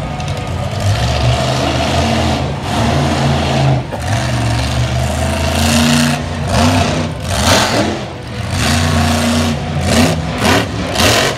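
Monster truck engine revving hard and easing off several times during a freestyle run, with loud noisy bursts in the second half.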